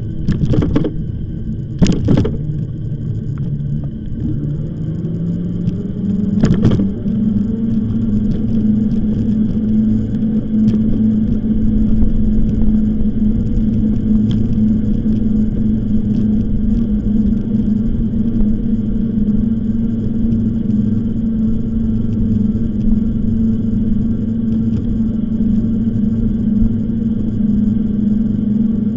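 Riding noise from an e-bike on the move: a steady rumble of wind and tyres, with a hum that rises in pitch over a few seconds and then holds steady. Three sharp knocks come in the first seven seconds.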